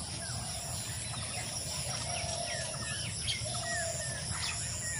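Birds chirping in the background: many short falling chirps, with a few longer lower calls, over low steady noise.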